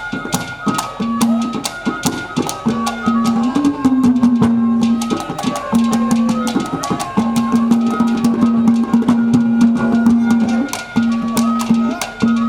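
Instrumental break in a live devotional bhajan: a fast, busy drum beat with many sharp strokes, under a melody line and a long held note that breaks off now and then.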